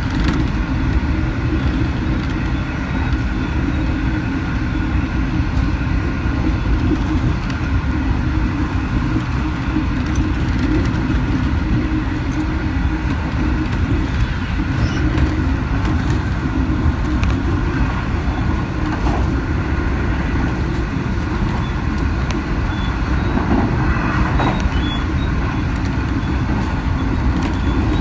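Steady low rumble of a moving passenger train heard from inside an H set carriage: wheels running on the rails, with faint steady higher tones above the rumble.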